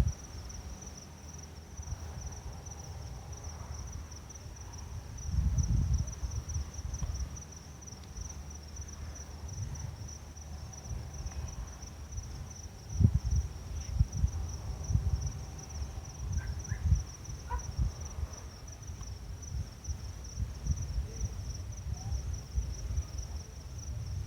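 Crickets trilling steadily in one unbroken high note. Several low rumbles swell and fade beneath it.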